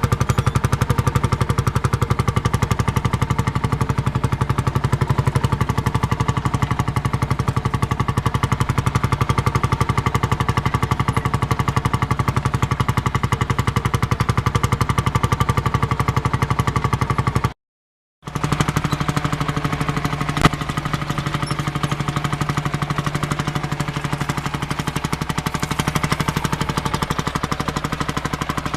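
Single-cylinder two-stroke diesel engine of a Field Marshall crawler tractor running steadily with a rapid, even beat. The sound cuts out for about half a second about two-thirds of the way through, and a sharp click follows a couple of seconds later.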